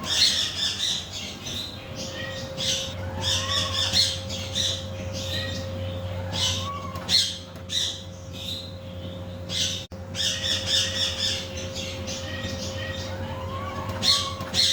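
Macaw parrot squawking: harsh, raspy calls repeated every second or so, over a steady faint hum.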